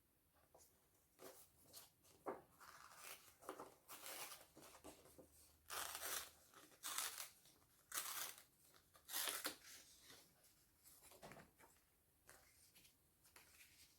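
Paper being handled and torn in a run of short, crinkly strokes, the four loudest coming one after another about halfway through.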